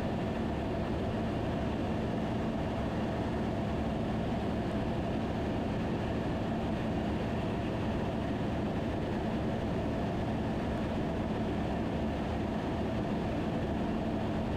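Steady drone of a Van's RV-10's engine and propeller heard inside the cabin during the landing approach, a constant hum with a low steady tone and no change in pitch.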